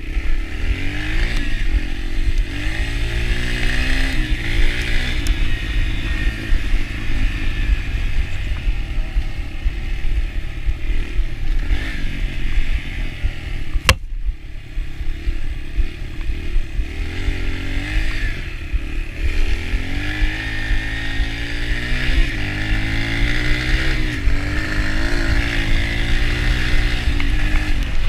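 Yamaha TT-R125 dirt bike's single-cylinder four-stroke engine under way, its revs rising and falling again and again as the throttle is opened and closed, over a constant low rumble. One sharp knock about halfway through.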